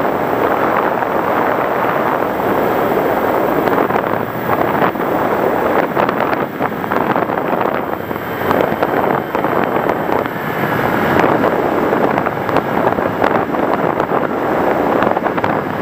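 Steady rushing wind noise buffeting the microphone, with frequent short crackles.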